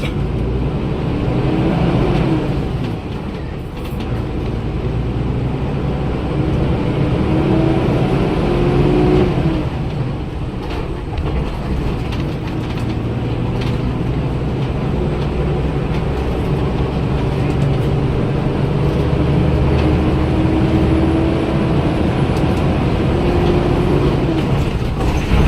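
Daewoo BS106 city bus's Cummins ISL Euro 6 300 PS diesel engine running under way, a steady low drone whose pitch climbs several times as the engine picks up revs and then drops back.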